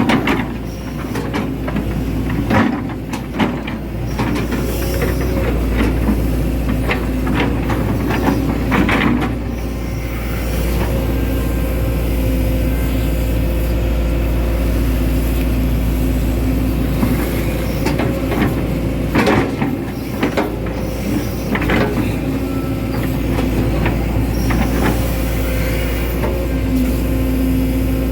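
Hitachi Zaxis 110 excavator's diesel engine running steadily under working load, with pitched tones that swell and fade as the hydraulics work. Sharp knocks and clanks come now and then, in clusters near the start, around a third of the way in and about two-thirds through.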